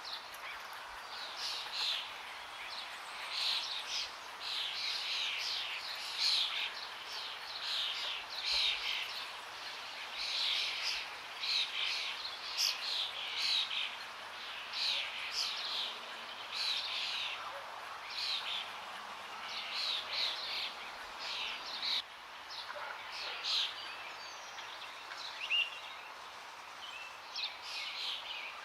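Forest birds singing and calling in quick runs of short, high chirps, over a steady rush of running water.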